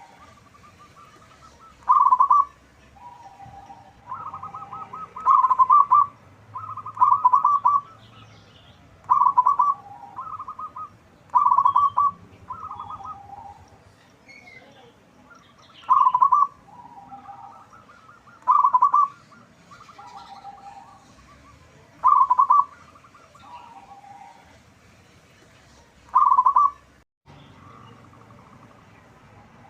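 Zebra dove (perkutut) cooing: a loud, rapidly pulsed call repeated every two to four seconds, about nine times, with softer, lower coos between the calls.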